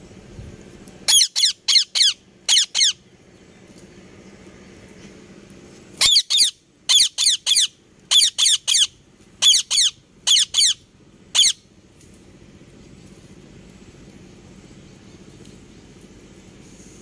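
Parrot giving short, shrill squawking calls in quick runs: about half a dozen a second in, then about a dozen more from around six seconds in, after which only a faint low background hum remains.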